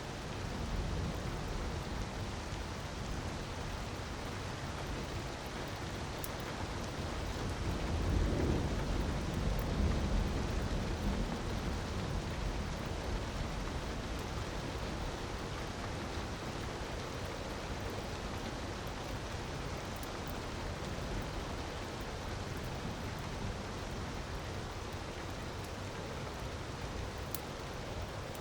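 Steady rushing noise of falling water, with a few faint crackles from a wood fire. A low rumble swells for a few seconds about eight seconds in.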